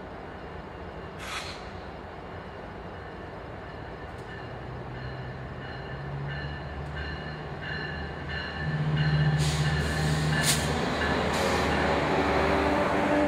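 Diesel train approaching and drawing near, its engine rumble growing steadily louder, much louder in the last few seconds. A bell rings about twice a second, with a few sharp clicks.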